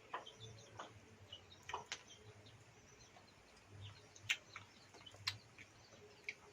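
Faint scattered bird chirps, with a few sharp clicks spread through.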